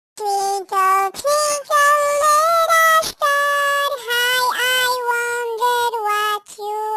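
A high-pitched child's voice singing a children's song in held notes, with short breaks between phrases.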